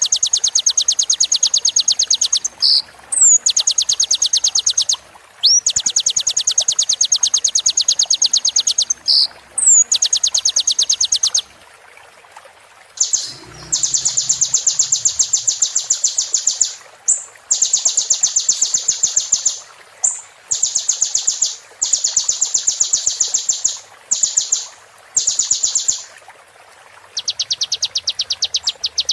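Sunbird ('kolibri') song: a very fast, high, buzzing trill delivered in repeated bursts of two to three seconds with short breaks between them, some bursts opened by a quick rising note.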